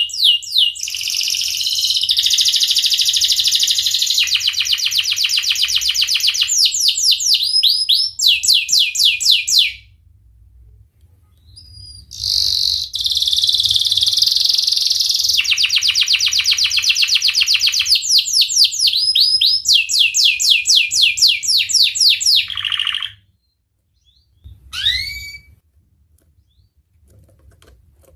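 Domestic canary in full song: two long phrases of fast repeated high notes and trills, the pace changing from section to section, with a short pause between them. Near the end come a couple of short downward-sweeping chirps.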